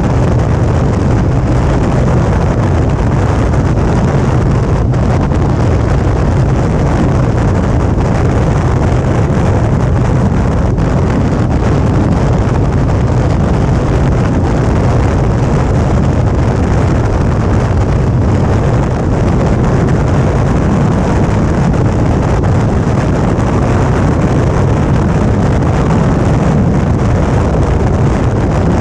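Steady wind rush and rumble on a GoPro mounted on a Suzuki V-Strom 650 riding at a steady speed, mixed with the bike's running and road noise. No change in speed and no distinct events.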